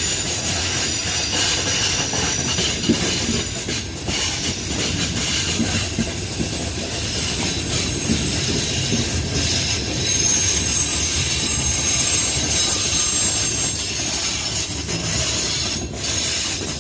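Loaded pig-iron freight train rolling past: a steady rumble of the wagons with wheel squeal and rail clatter.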